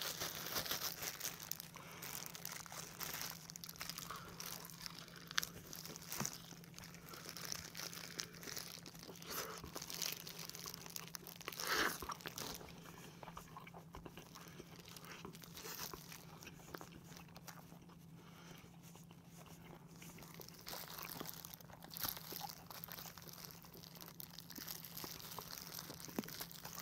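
Close-up eating sounds: faint crunching and chewing of whole fried chicken, mixed with the crinkle of thin plastic gloves as the meat is pulled apart by hand, in scattered small clicks and crackles.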